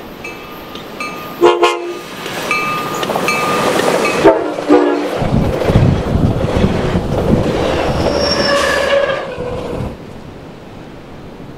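Coaster commuter train, pushed with its bi-level cab car leading, approaching and passing close by. A bell dings steadily, about once every three-quarters of a second, and the horn gives a short blast about a second and a half in, then two more short blasts around four and a half seconds. The bi-level coaches then rumble past with wheels clacking and a brief high wheel squeal, and the sound drops off abruptly about ten seconds in.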